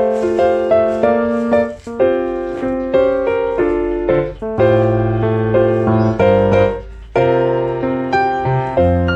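Background music: solo piano playing a gentle melody over chords, notes struck and left to ring.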